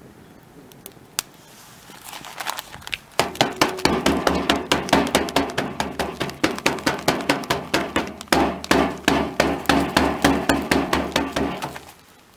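Rapid, regular hammer strikes, about four a second, starting softly about two seconds in, going at full strength from about three seconds in and stopping abruptly near the end.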